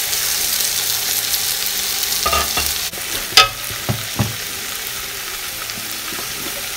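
Masala frying and sizzling in a large metal pot as raw chicken pieces go in and are stirred through with a metal skimmer ladle. The ladle clacks and scrapes against the pot a few times around the middle, loudest about three and a half seconds in.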